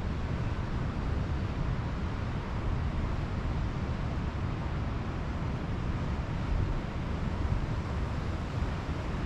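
Steady rush of Pacific Ocean surf with a low wind rumble on the microphone.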